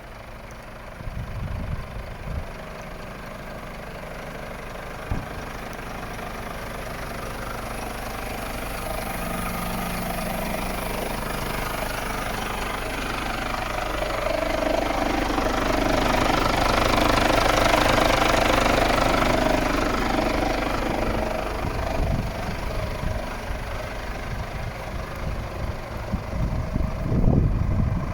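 Scania P410 truck's diesel engine running, swelling steadily louder to a peak about two-thirds of the way through, then easing off.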